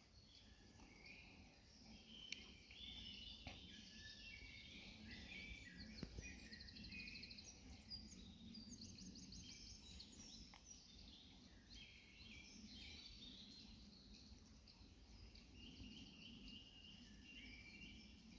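Faint woodland birdsong: several small birds chirping and trilling, one with a rapid trill about halfway through, over a low, even background murmur, with a few faint clicks.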